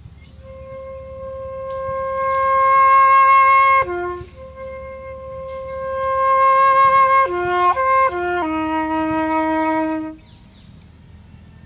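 Solo flute playing a slow phrase: a long held note that swells, a short dip to a lower note, the same held note again, then a quick run of notes settling on a lower held note that ends about ten seconds in.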